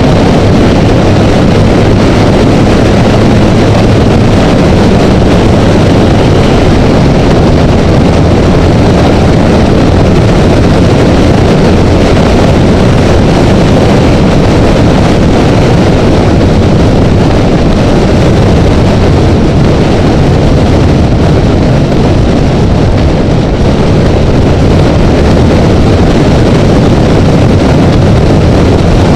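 Honda Rebel motorcycle cruising at freeway speed: a loud, steady rush of wind and road noise with a low engine hum underneath, heard muffled through a sealed camera housing.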